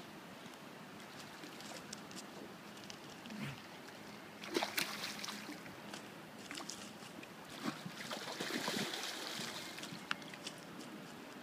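Water splashing in short bursts, about four and a half seconds in and again from about eight to nine and a half seconds, over the steady rush of a river.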